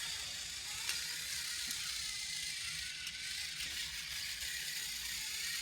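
Small battery-powered toy train motor and plastic gears whirring steadily as the engine runs along its track, with a few faint clicks.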